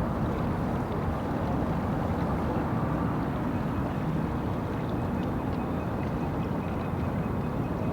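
City street ambience at night: a steady low rumble of distant traffic.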